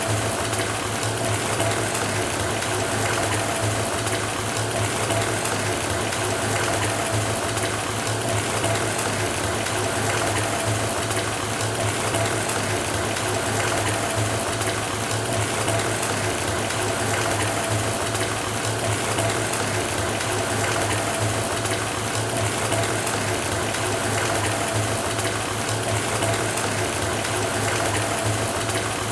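Tap water pouring steadily into a bathtub as it fills: an even, unbroken rush with a faint steady tone.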